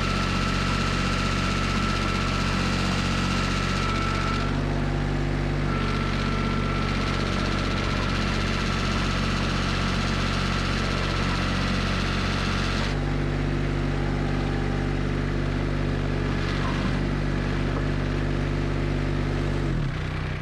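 Kubota 25 hp diesel engine of a STAG TL425 track loader running steadily, with a steady high whine over it that breaks off for a moment and stops for good about two-thirds of the way through. Near the end the engine speed drops.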